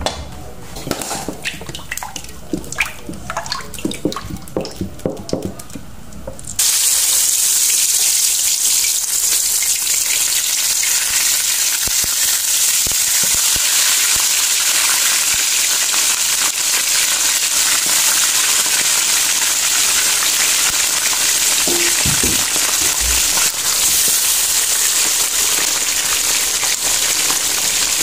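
Scattered clicks and knocks of kitchen handling, then, about six seconds in, a loud, steady sizzle starts suddenly: fish roe deep-frying in hot oil.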